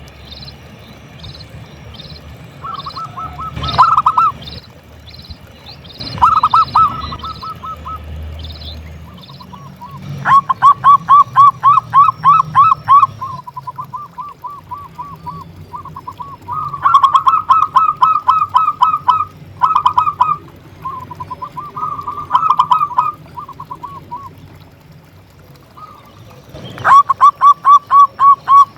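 Zebra dove (perkutut) cooing in repeated bouts of rapid, evenly spaced notes, a few seconds each, with short pauses between bouts. A second bird's short high chirps repeat a few times a second through the first several seconds.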